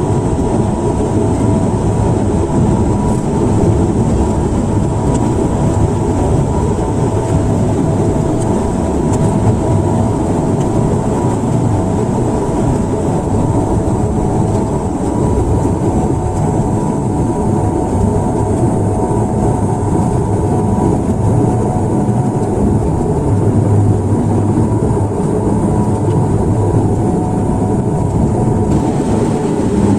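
Airliner cabin noise: a loud, steady rumble of engines and airflow with a few steady tones running through it.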